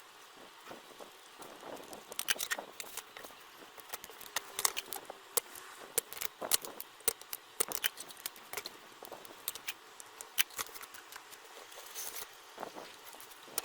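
Small tools and parts being handled: irregular sharp clicks, ticks and light clatter.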